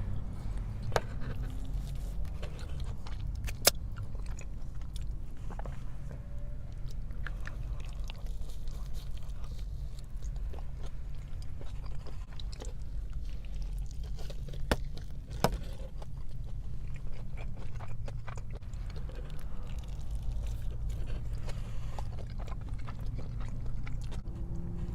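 A person chewing and biting into a burrito close to the microphone, with scattered short clicks from the mouth and food over a steady low hum.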